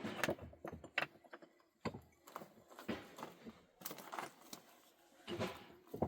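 A series of irregular knocks and short scrapes, about one a second, like objects being handled and set down.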